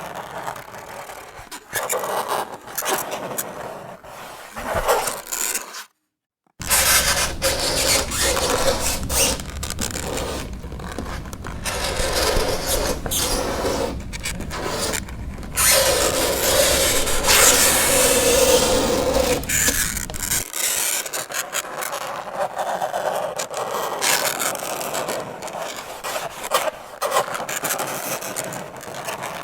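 Fingernails scraping on a chalkboard in repeated rasping strokes. It cuts out to silence for about half a second around six seconds in, and a low hum runs under the scraping from then until about twenty seconds in.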